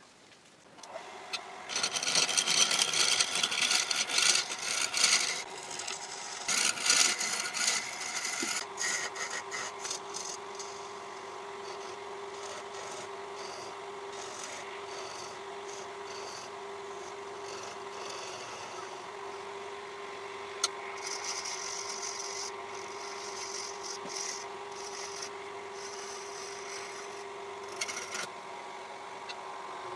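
Wood lathe running with a steady hum while a tool works the spinning wood in loud, noisy stretches: heaviest over the first several seconds and again near the end.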